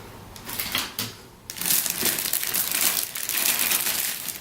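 Plastic packaging crinkling and rustling as parts of a resin model kit are handled, with a few light clicks at first and a dense, continuous crinkle from about a second and a half in.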